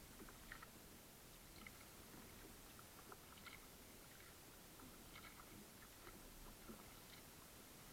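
Near silence: a faint hiss with scattered small, irregular clicks and ticks, a few each second.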